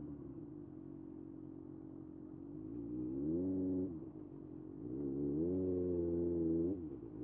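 Kawasaki ZX-6R's inline-four engine under way, heard from the tank: the revs climb about three seconds in, fall away sharply at a gear change, climb again and hold, then dip briefly near the end before picking back up.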